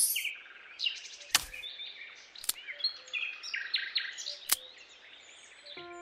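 Birds chirping and twittering in quick, high notes, with three sharp taps about one and a half, two and a half and four and a half seconds in. Music comes in just before the end.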